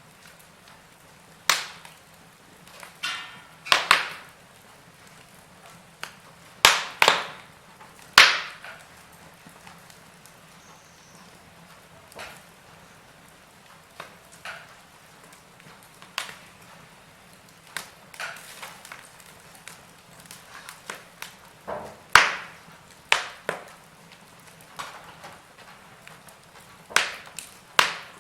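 Wood fire crackling in a fireplace: irregular sharp pops and snaps, some much louder than others, over a faint steady hiss.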